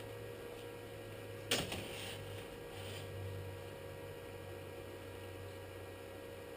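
Steady low hum with a single sharp knock about a second and a half in, trailing off briefly.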